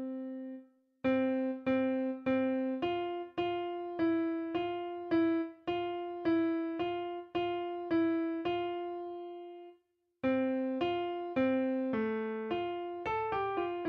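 Keyboard playing the alto line of a hymn one note at a time, each note struck and fading, with short pauses between phrases: a part-learning track for altos.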